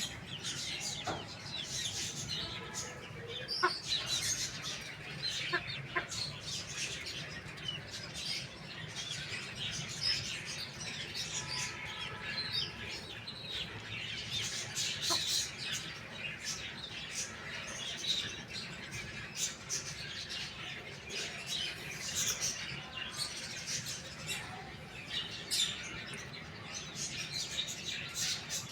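Chickens clucking among a continuous chatter of small birds chirping, with many short high chirps throughout.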